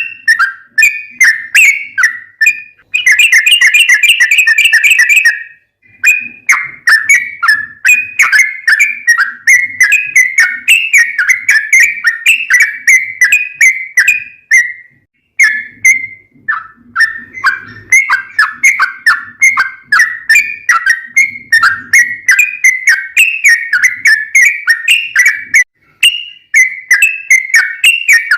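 Yellow-vented bulbul (trucukan) singing long runs of rapid, chattering whistled notes, with an especially fast run about three seconds in and brief pauses midway and near the end.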